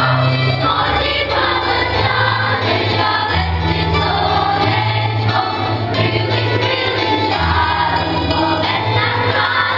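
Choir singing over instrumental music with a steady bass line.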